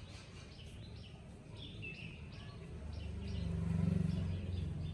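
Small birds chirping repeatedly in short calls, over a low hum that swells about three seconds in and then eases.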